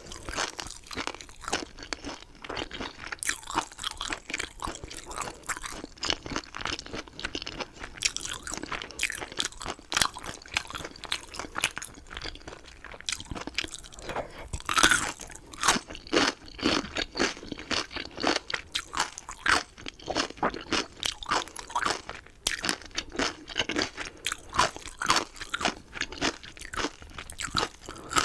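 Close-miked crunchy chewing and biting of chicken, a dense run of crisp crackles, with one especially loud crunch about halfway through.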